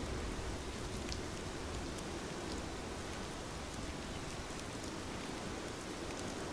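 Steady rain falling, an even hiss with scattered faint drop ticks and a low rumble underneath.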